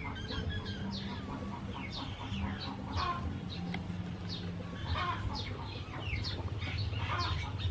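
Birds chirping in the background: many short, high chirps that each fall in pitch, several a second, over a low steady hum.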